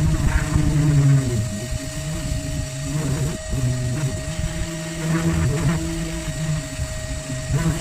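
Electric grinder sanding old paint off a boat hull, its motor pitch dipping and recovering as it is pressed into the work, over a steady higher hum.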